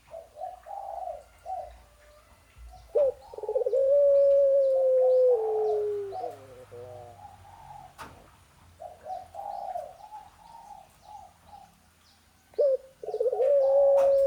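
Dove cooing to call its mate: a run of short coos, then a long drawn-out coo held on one pitch that slides down at its end, about three seconds in. The same phrase starts again near the end. Faint high chirps of small birds sound underneath.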